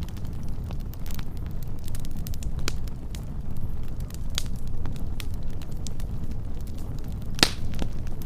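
Wood fire burning with a steady low rumble and scattered crackles and pops, one sharp pop louder than the rest about seven and a half seconds in.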